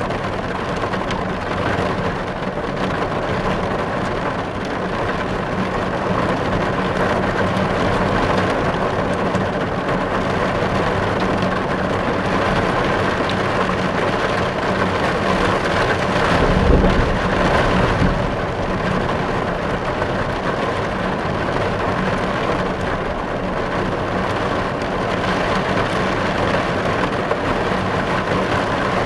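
Heavy rain pelting car glass, heard from inside the car as a dense, steady patter. About two-thirds of the way through, a short low rumble swells and fades.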